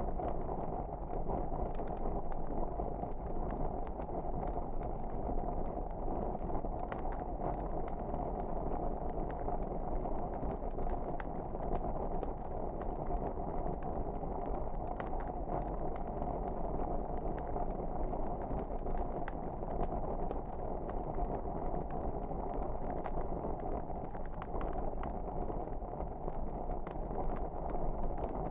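Wood fire burning in a fireplace: a steady low rushing sound with frequent small crackles and pops scattered throughout.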